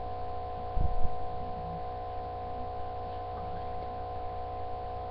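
A steady background hum of several held tones, with a couple of low thumps about a second in.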